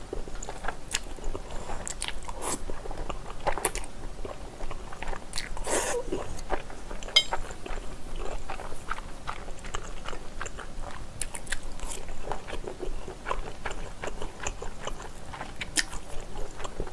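Close-miked chewing of a mouthful of spicy squid and pork belly with rice, with many short wet smacks and clicks of the mouth.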